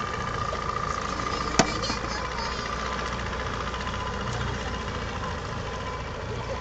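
Boat engine idling steadily, with a single sharp click about a second and a half in.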